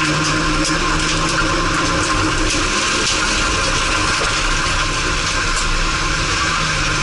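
Renault autocross car's engine heard from inside the stripped cabin, running hard at fairly steady revs on the dirt circuit, with a few sharp ticks over it.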